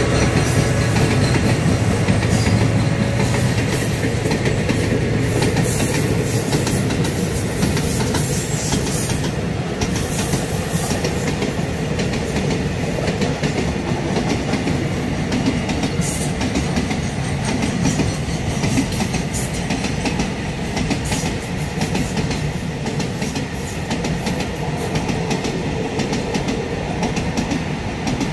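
Container wagons of a long freight train rolling steadily past, a continuous rumble with repeated wheel clacks over the rail joints.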